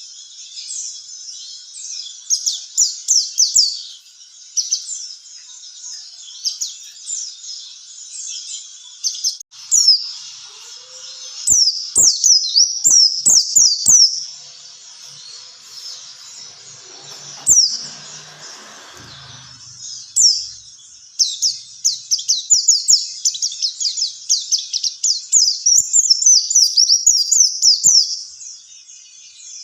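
White-eye (pleci) song: bursts of rapid, high, downward-slurred chirps, separated by quieter stretches of softer twittering. Faint clicks and a brief low rustle come about two-thirds of the way through.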